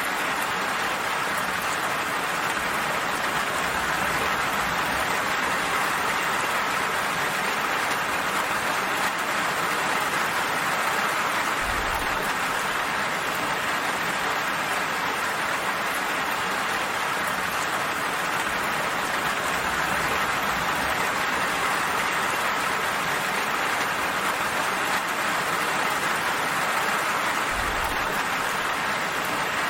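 Steady rain falling, an even hiss with a faint low thud now and then.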